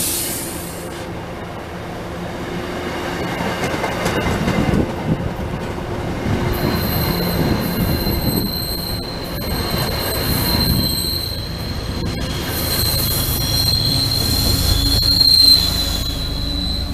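MBTA commuter rail train of bilevel coaches rolling past close by, wheels clacking with a steady high wheel squeal from about six seconds in. Near the end the diesel locomotive passes and the low rumble grows louder.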